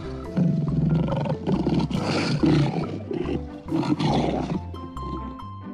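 Lion roaring in about three long phrases, stopping about a second before the end, over background music.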